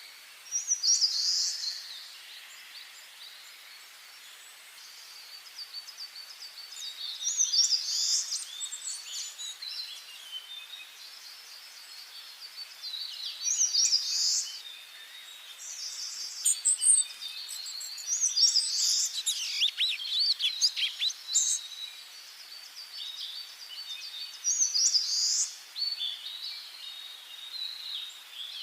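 Songbirds singing: one bird repeats a short, bright song phrase about every five to six seconds, with quieter chirps from other birds in between and a faint steady hiss behind.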